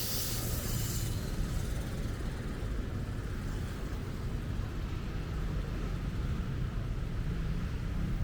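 Street traffic: a steady low rumble of running vehicles, with a high hiss that fades out about a second in.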